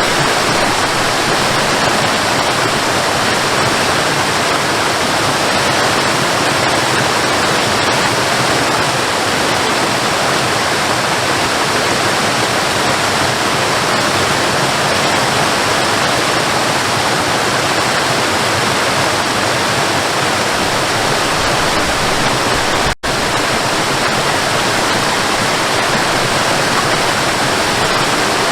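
Waterfall: a steady, dense rush of falling water. Near the end the sound cuts out for an instant and comes straight back.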